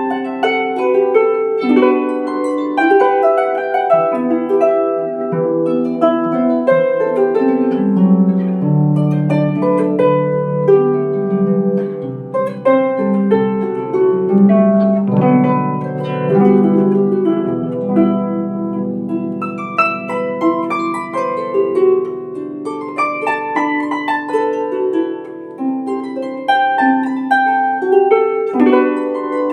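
Celtic harp playing a melody with a plucked accompaniment, the notes ringing on, with low bass notes sustained through the middle of the passage.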